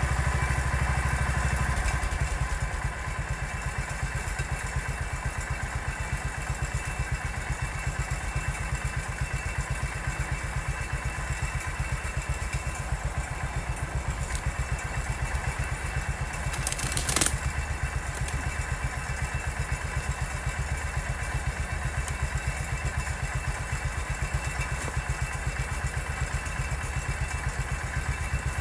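Massey Ferguson 14 garden tractor engine running at low speed with an even, steady chug while dozing, a little louder for the first couple of seconds. A single sharp snap cuts through about seventeen seconds in.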